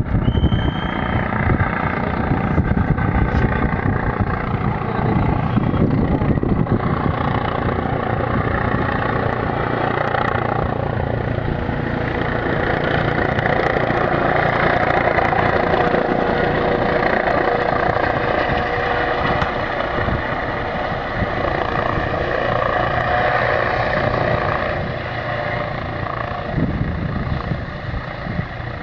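Helicopter coming in to land, its rotor and turbine running loudly and steadily: a fast low beating of the blades under several steady whining tones.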